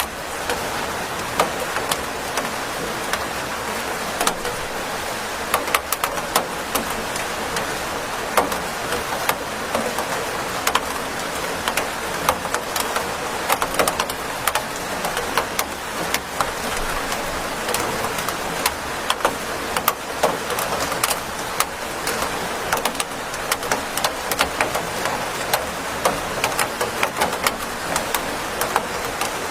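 Steady rain hissing, with many sharp drops ticking irregularly on a hard surface.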